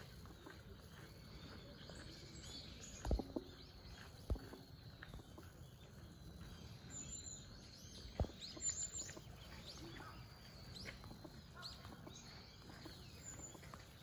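Birds chirping faintly and sparsely, short high notes scattered over a steady outdoor hum. A few dull low knocks stand out: about three seconds in, again a second later, and a cluster about eight seconds in.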